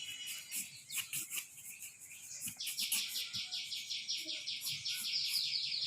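A bird calling in the background: a few scattered high chirps, then from about two and a half seconds in a fast, even trill of high notes, about nine a second.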